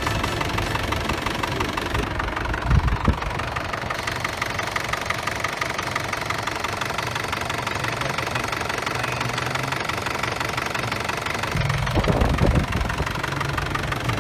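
Isuzu D-Max pickup engine idling steadily, with a couple of louder low thumps about three seconds in and again near the end.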